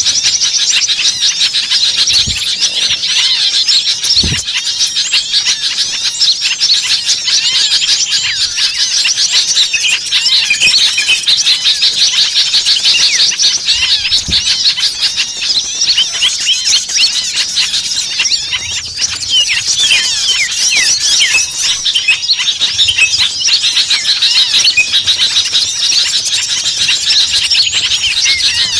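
Dense, noisy chorus of many small songbirds chirping and trilling at once, the agitated calls of a bird-lure recording made to draw in all kinds of small birds.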